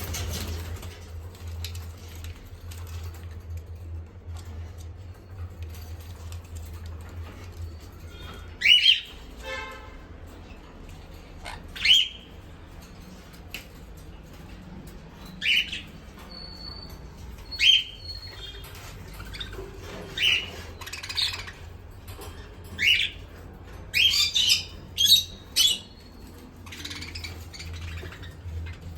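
Small pet parrots giving loud, sharp, shrill single calls, spaced a few seconds apart and then coming in a quicker cluster a few seconds before the end, over a steady low hum.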